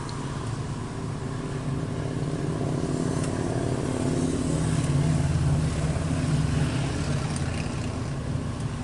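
Car engine and road noise heard from inside the cabin while driving, a steady low hum that grows louder toward the middle and then eases off.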